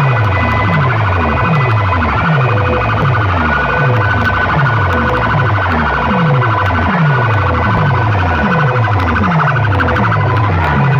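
Loud playback of a DJ competition track through big box speaker sets: a deep falling bass sweep repeats about one and a half times a second, under steady high siren-like tones.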